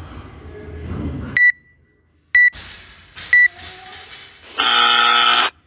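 Electronic gym timer countdown: three short high beeps about a second apart, then one longer, lower buzzer tone.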